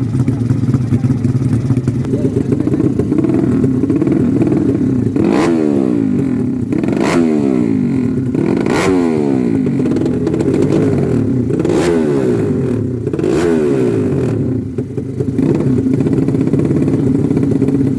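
Drag-race motorcycle engine idling, then revved in about five sharp throttle blips, each falling back to idle, before settling into steady running again near the end.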